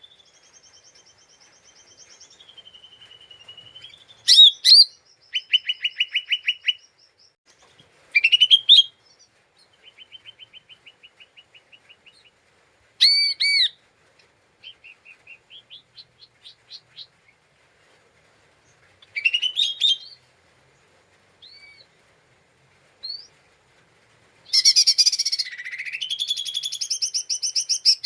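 Cucak ijo mini (a small green leafbird) singing a varied song: whistled notes and slurs, rapid stuttering trills and short chatters, separated by brief pauses. A loud, dense run of chattering fills the last few seconds.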